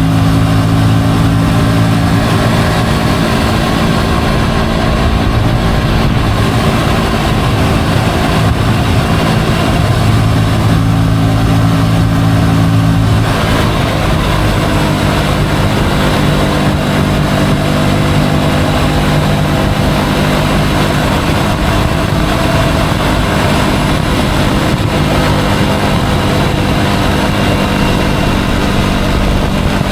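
Motorcycle engine running steadily while riding through traffic, with road and wind noise; about halfway through, the engine note changes and the rushing noise gets louder.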